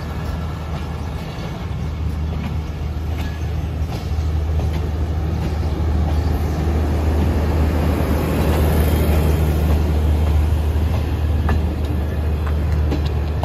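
Diesel train passing through a station: a steady low locomotive engine drone under rolling wheel-and-rail noise that swells to its loudest about two-thirds of the way through, with a few sharp wheel clicks near the end.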